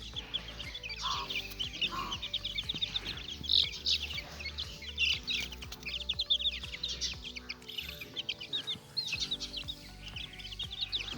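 Young chicks peeping, many short high cheeps overlapping without a break, over quiet background music.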